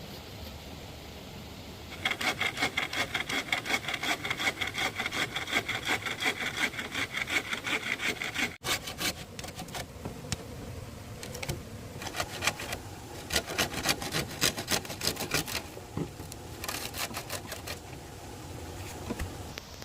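Hand saw cutting bamboo in quick, rhythmic strokes with a ringing rasp, steady for about six seconds, then after a sudden break continuing in shorter runs of strokes.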